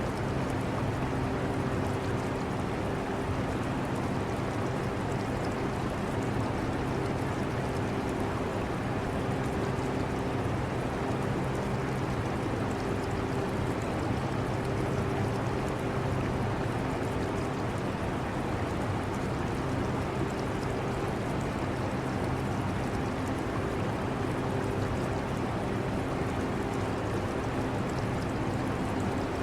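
Portable air conditioner running with a steady hum and a few low tones that fade in and out, mixed with the trickle of aquarium water.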